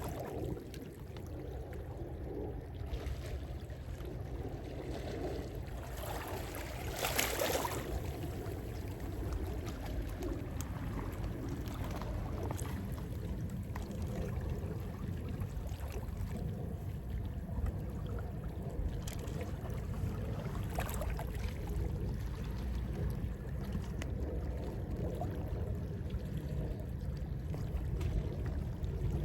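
Gentle sea waves washing in over a steady low rumble, with one larger wash about seven seconds in.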